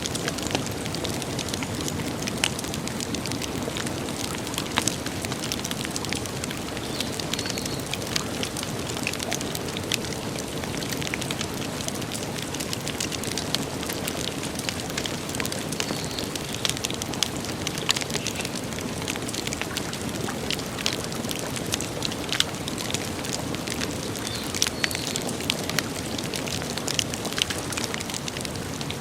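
Campfire burning, with many irregular sharp crackles and pops over a steady low rush of flame.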